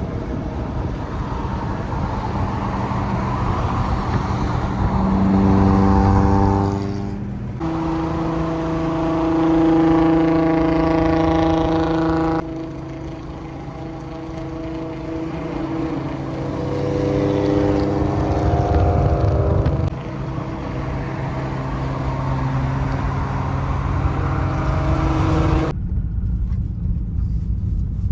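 Car engines and exhausts running while driving, the pitch climbing as one accelerates about five to seven seconds in, with the engine note changing abruptly several times.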